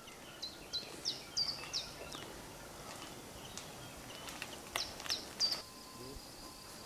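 Bird chirping in short, sharp, falling high notes, a run in the first two seconds and another around five seconds in, over a faint outdoor background; near the end a steady high insect trill takes over.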